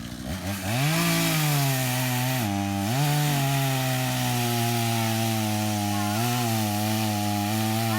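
Chainsaw revving up from idle about half a second in, then running at high speed through wood. Its pitch dips briefly twice as the chain bogs under load in the cut.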